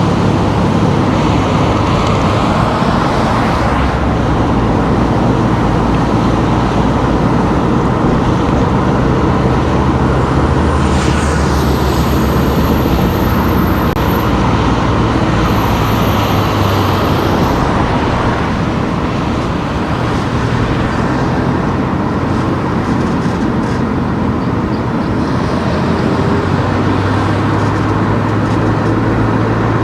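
Car engine and tyre noise while driving through town streets, a steady hum whose low engine note steps up and down as the car changes speed. A brief falling whoosh about eleven seconds in.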